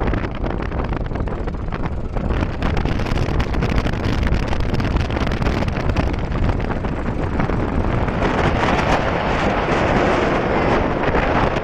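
Farmtrac 60 tractor's diesel engine running hard under load, with wind buffeting the microphone. The noise grows louder and harsher about eight seconds in.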